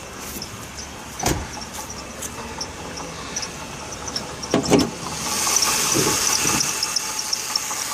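Two thumps, the louder about 4.7 seconds in. Then, from about five seconds in, the running 3.0 L Vulcan V6 grows louder with a rapid run of short high chirps from a failing water pump bearing.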